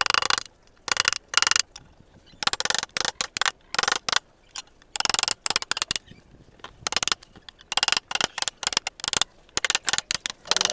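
Wood-carving chisel cutting into wood in short, quick scraping strokes, about two a second and unevenly spaced.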